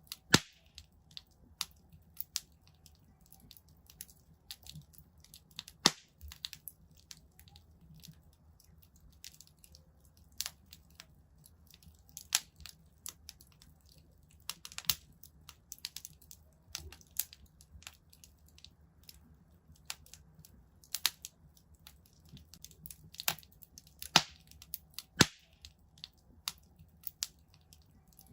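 Wood fire burning in a fireplace, crackling with irregular sharp pops and snaps, a few of them loud, over a faint low rumble.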